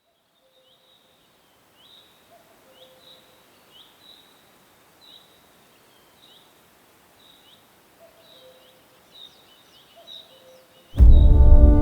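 Birdsong: a small bird repeats short, high, down-curling chirps about once a second, with fainter lower calls underneath. Near the end, loud music starts suddenly.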